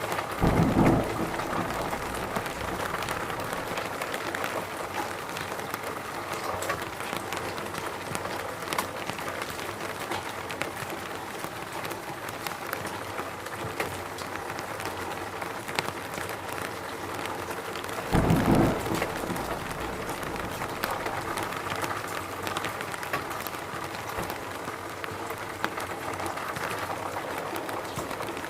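Steady rainfall in a forest, an even hiss dotted with the patter of individual drops. Twice, once just after the start and once about two-thirds of the way through, a louder, deeper swell lasts about a second.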